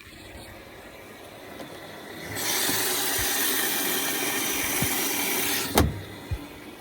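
Zanussi FL984CN washing machine taking in water: a loud rushing hiss starts a couple of seconds in, holds steady for about three seconds, then cuts off suddenly with a click, followed by a short thump half a second later.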